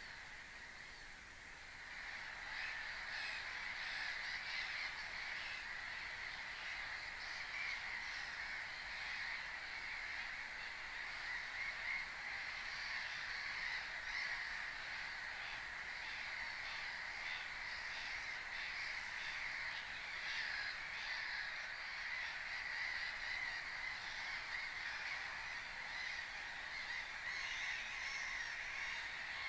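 A waterbird colony: many birds calling at once in a dense, unbroken chorus, a little thinner for the first couple of seconds.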